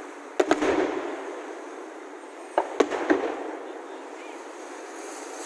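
Aerial firework shells bursting at a distance: two sharp bangs about half a second in, then another group of two or three bangs around the middle, each trailing off into a rumbling echo.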